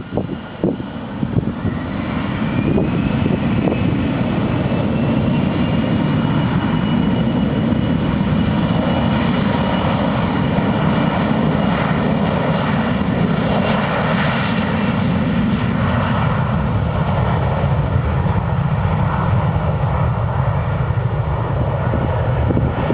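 Boeing 737-500's twin CFM56-3 turbofan engines at takeoff thrust: a loud, steady jet roar. A whine rises in pitch over the first few seconds as the engines spool up, then holds.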